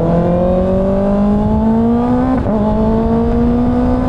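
Kawasaki ZX-6R's inline-four engine pulling under acceleration, its pitch climbing steadily, with a quick upshift about two and a half seconds in, after which it pulls up through the revs again.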